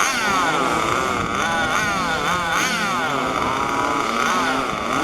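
Several 1:5 scale petrol RC cars' small two-stroke engines running at once, their pitches rising and falling as they throttle up and back off around the track.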